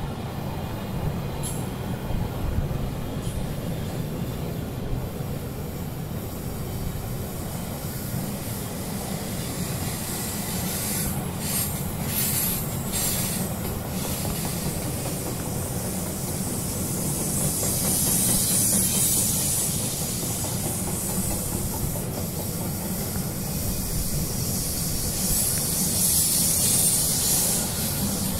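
Loaded two-tier auto-carrier freight wagons rolling past on the rails: a steady low rumble of wheels on track. A high hiss swells about two-thirds of the way in and again near the end, and a few sharp clicks come around the middle.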